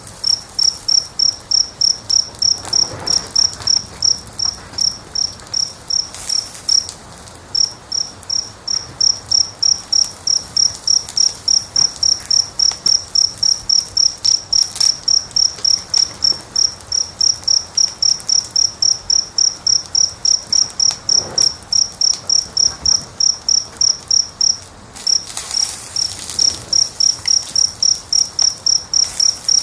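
A cricket chirping steadily, about three high chirps a second on one pitch, pausing briefly twice. Under it a faint fire hiss and crackle.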